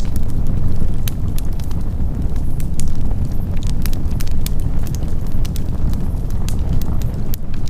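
Wood campfire burning, with many sharp crackles and pops scattered over a steady low rumble.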